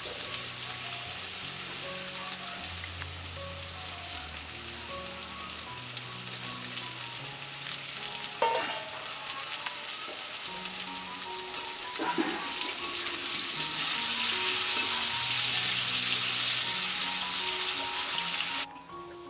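Pumpkin pieces sizzling as they fry in a metal wok (kadai), stirred with a metal spatula that scrapes the pan sharply twice. The sizzle cuts off abruptly near the end.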